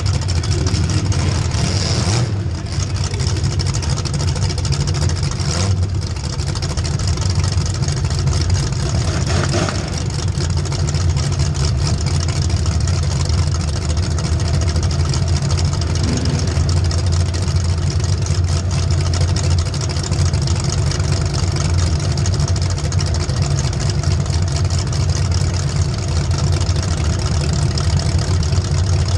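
Race vehicle's engine running hard and steadily through a racing heat, with a constant rushing noise over it.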